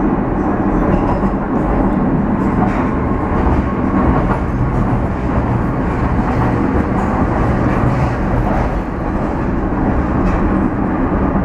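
Docklands Light Railway train running along the track, heard from inside the passenger car: a steady rumble of wheels on rail with faint clicks.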